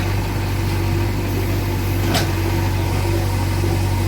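A JCB 3DX backhoe loader's 76 hp diesel engine running at a steady speed, a low drone, with one sharp click about two seconds in.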